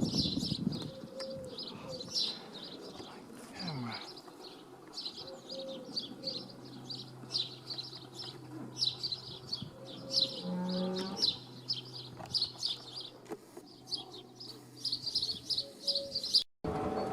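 Small birds chirping in a rapid series of short high notes, about three or four a second, pausing briefly now and then. A low rumble fades out within the first second, and a faint steady low hum runs under the chirping through the middle.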